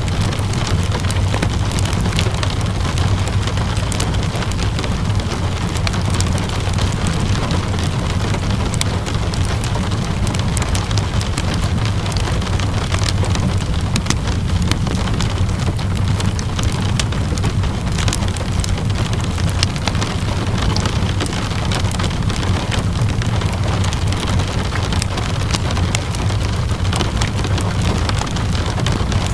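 Steady rainfall mixed with the small crackles and pops of a wood fire, over a constant low rumble.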